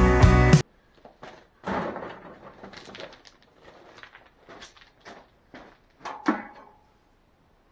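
Music that cuts off suddenly, followed by a scattering of short knocks and clatters, two of them louder than the rest.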